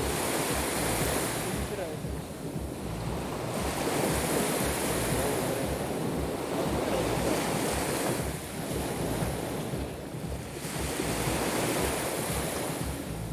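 Black Sea surf on the shore: three waves wash in with a hiss and draw back, a few seconds apart. Wind rumbles on the microphone.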